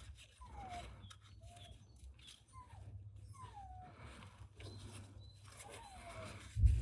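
A series of short animal calls, each a quick falling whistle, about five in all, over a low steady hum with scattered clicks. A heavy thump comes near the end.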